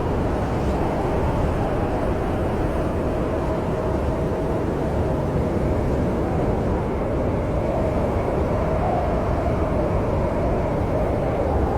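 Snowstorm wind: a steady low rushing noise with a faint wavering whistle running through it.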